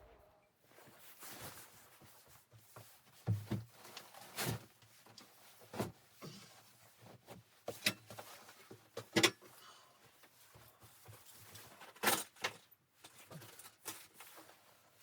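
Irregular knocks, clicks and light clatter, about a dozen of them at uneven intervals, like objects being handled and set down.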